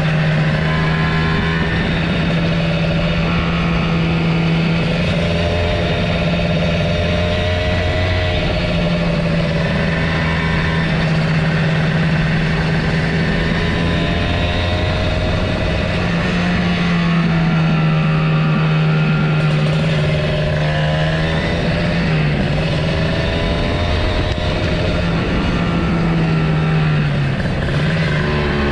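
Kawasaki Ninja motorcycle engine running under way, its pitch drifting up and down with the throttle, with a couple of brief dips near the end.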